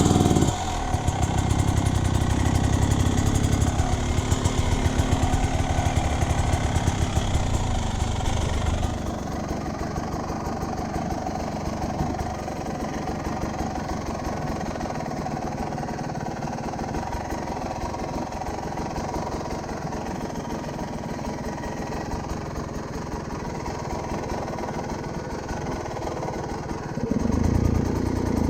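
Motorcycle engine running just after being started, at a faster idle at first. It settles to a lower, quieter idle about nine seconds in, then picks up again near the end.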